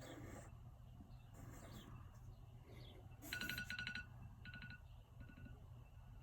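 Faint pen strokes on paper, then about three seconds in an electronic timer alarm beeps in a quick run of high tones, followed by two shorter runs of beeps. The alarm marks the end of the 10-second drawing time.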